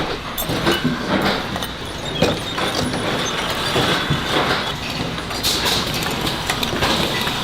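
Factory production machinery running with a dense clatter of irregular clicks and knocks.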